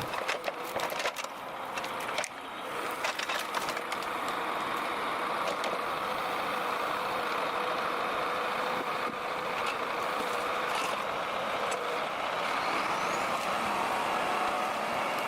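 Belarus MTZ-1221 tractor's diesel engine running steadily while pulling a heavy timber trailer, with a few sharp clicks and knocks in the first few seconds.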